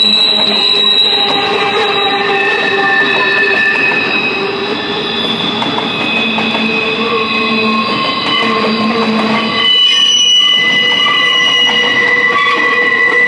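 Cars of a long train rolling past, their steel wheels squealing against the rails in several high, shifting tones that come and go.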